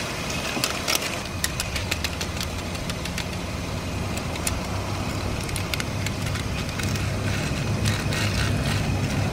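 Car engine idling steadily. Over it come scattered short plastic clicks as a broken plastic toy car is handled and pressed back together.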